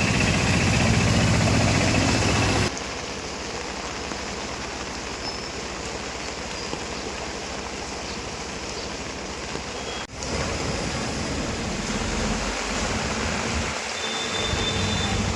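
Outdoor flood ambience: a steady rush of flowing water mixed with vehicle noise, changing abruptly about three seconds in and again about ten seconds in.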